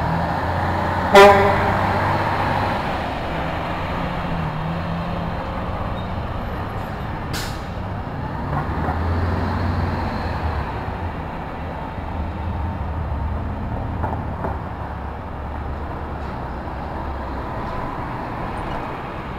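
City street traffic: a steady low rumble of passing cars, trucks and buses, with one short vehicle horn toot about a second in.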